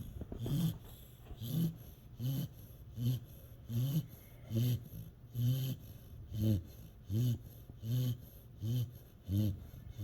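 A dog snoring while asleep: a steady run of short, low snores, about one every 0.7 seconds.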